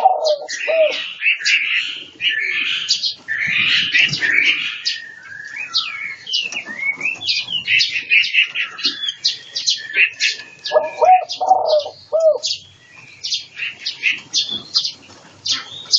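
Several small cage birds chirping and whistling over one another, with quick high calls running throughout. A lower call that rises and falls repeats a few times about two-thirds of the way through.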